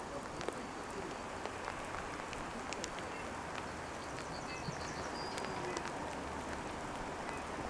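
Steady outdoor hiss with scattered faint ticks like drips, and a small bird giving a quick run of high chirps about four seconds in.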